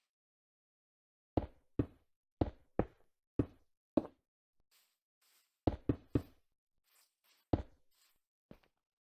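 About a dozen sharp, irregularly spaced knocks of hard objects, some in quick pairs and triplets, with faint scraping between them in the middle.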